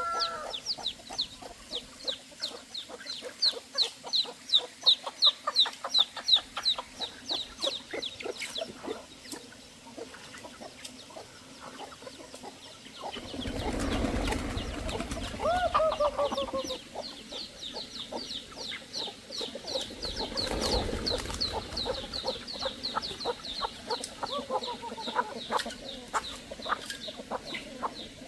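Chickens calling and clucking, with long runs of rapid, high, falling chirps about four a second. There are a few lower sliding calls midway and two spells of louder scratchy noise.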